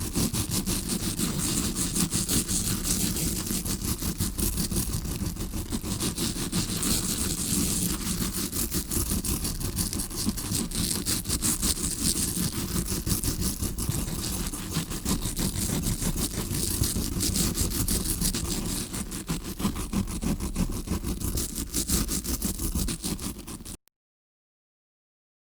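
Tawashi scrubbing brush rubbed in fast, continuous scratching strokes right against the microphone, imitating ear cleaning heard from inside the ear. It cuts off abruptly to silence near the end.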